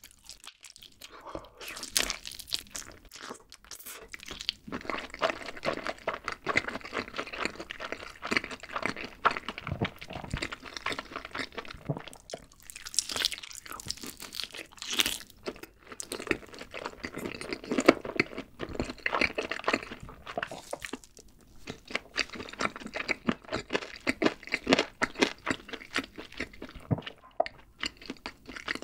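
Close-miked eating of a barbecue-glazed chicken leg: bites into the sticky, sauced skin and a steady run of wet chewing and crunching, easing off briefly about two-thirds of the way through.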